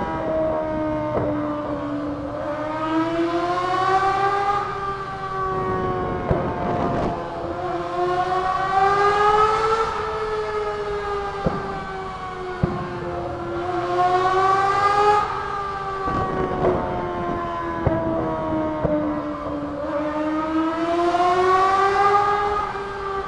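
Kawasaki ZR250 Balius inline-four with no muffler, run hard in a road tunnel: the exhaust note climbs steadily for a few seconds and then drops, about four times over, with a few short sharp cracks in between.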